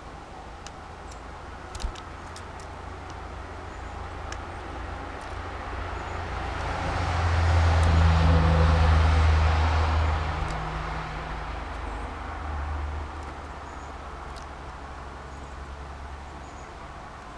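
A car passing by: tyre noise and a low engine hum swell over several seconds, are loudest about halfway through, then fade away.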